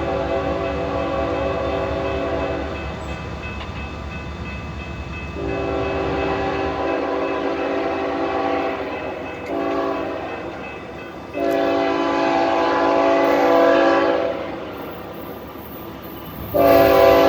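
Norfolk Southern diesel locomotive's air horn sounding the grade-crossing signal in chords of several notes: a long blast that ends about three seconds in, then long, short, long, and another long blast starting near the end. A low rumble from the locomotive runs underneath.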